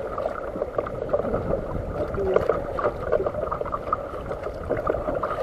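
Water sloshing and splashing against a fishing kayak at sea, with many small irregular splashes.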